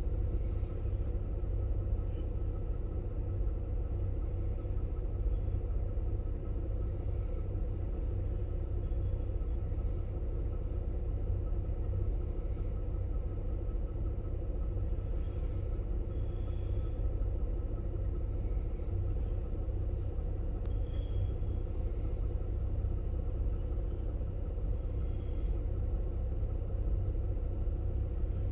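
Steady low rumble of outdoor background noise, even in level throughout, with faint high chirps now and then. No thunder is heard.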